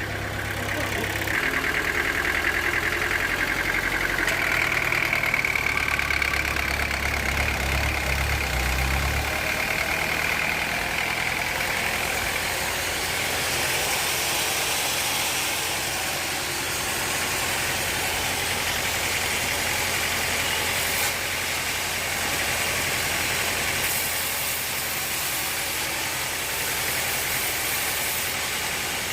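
Sawmill machinery running steadily, a low engine-like hum with a higher whine for roughly the first ten seconds, then an even mechanical noise.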